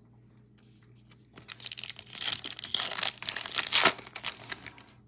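Foil wrapper of a Topps Chrome baseball card pack being torn open and crinkled: dense crackling for about three seconds, starting about a second and a half in.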